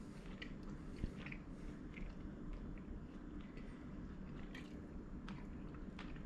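A man chewing a mouthful of cooked fish, with soft, wet mouth clicks scattered through, over a steady low room hum. One sharp tap about a second in.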